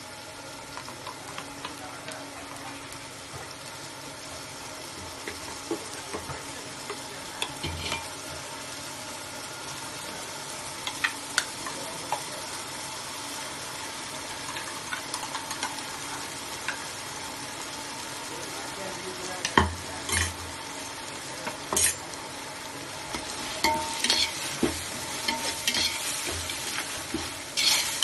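Food sizzling as it fries in a pan while being stirred, with a spoon scraping and knocking against the pan; the knocks get louder and more frequent in the second half.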